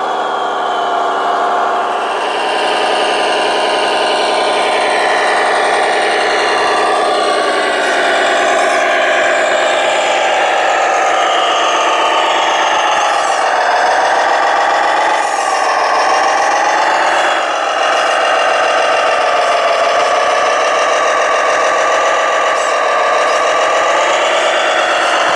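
Radio-controlled model truck running with a continuous engine drone whose pitch rises and falls repeatedly as the throttle is worked.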